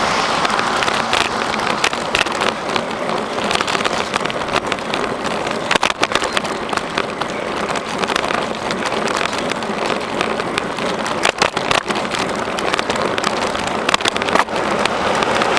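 Noise of a bicycle being ridden on a rough trail: a steady rush of wind and tyre noise, broken by frequent rattling clicks and knocks.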